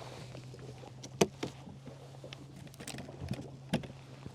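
A few sharp clicks and knocks of fishing gear being handled in an aluminum boat while a planer board is rigged, the loudest about a second in and another near the end, over a low steady hum.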